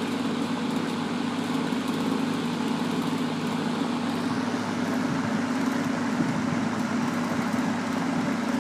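1970s Berns Air King box fan with a Westinghouse motor running on high speed: a steady motor hum under an even rush of air from the blades.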